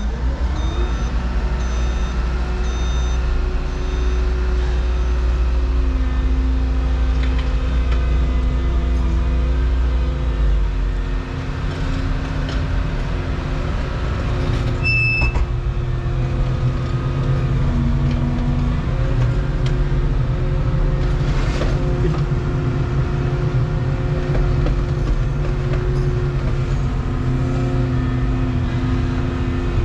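Volvo 235EL excavator running under work: a steady diesel engine drone whose note shifts as the hydraulics load, with a deep rumble that eases about eleven seconds in. A short high beep sounds about halfway through.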